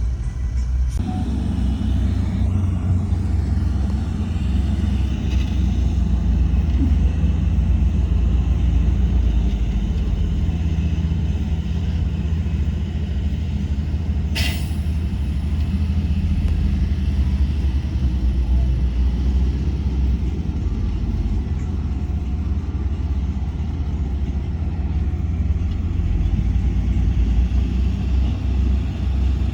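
Heavy diesel engine of earthmoving machinery running steadily, with a brief sharp hiss about halfway through.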